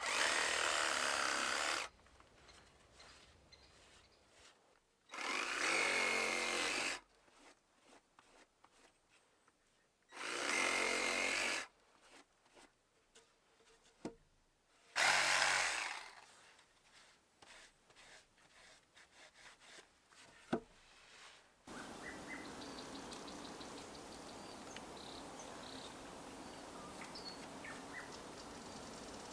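A power tool runs in four short bursts of about two seconds each, starting and stopping abruptly, with a couple of sharp clicks between them. From about two thirds of the way in, a steady fainter outdoor background with small ticks takes over.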